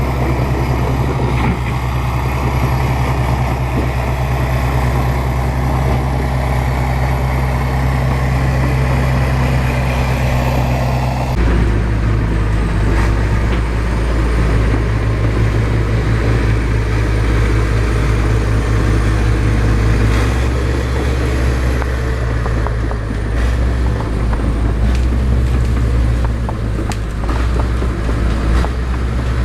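Bulldozer's diesel engine running steadily, its low drone changing abruptly about eleven seconds in. A few faint knocks come near the end.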